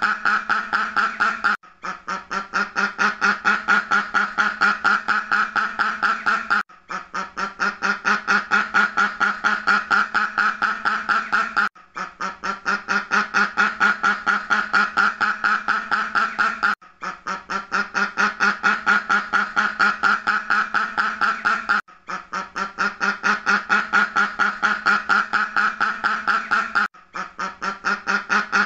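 Duck quacking in a fast, unbroken string of quacks that pauses briefly about every five seconds and starts again, the same stretch repeated as a loop.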